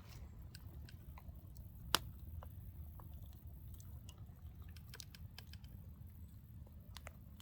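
Wood campfire crackling: scattered sharp pops and snaps from the burning wood, one louder pop about two seconds in, over a steady low rumble.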